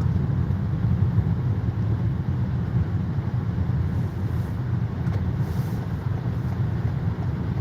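Steady low rumble of road and tyre noise inside the cabin of a moving car.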